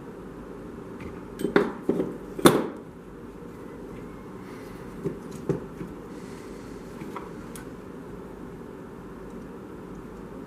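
A few sharp clicks and knocks of hard parts or tools being handled, a cluster of them about two seconds in and two lighter ones around the middle, over a steady low hum.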